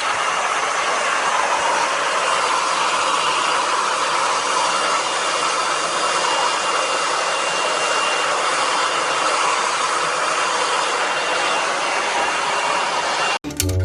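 A steady rush of air from an electric motor, with a faint high whine held at one pitch; it cuts off suddenly near the end.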